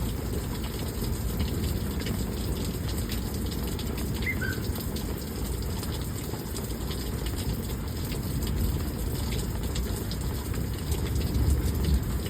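Steady rushing of storm runoff water with light dripping after a heavy thunderstorm. Two brief high chirps about four seconds in.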